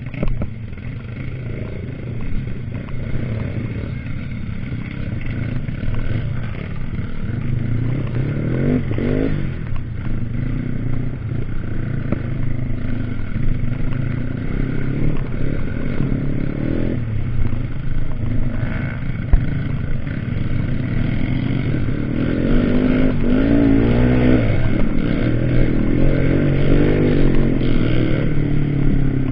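Off-road trail motorcycle engine running and revving, its pitch rising and falling several times and growing louder toward the end.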